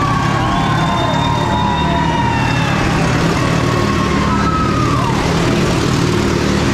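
Vintage Indian V-twin motorcycle engine running loud and steady, with thin high whining tones above it that hold and then slide down in pitch, twice.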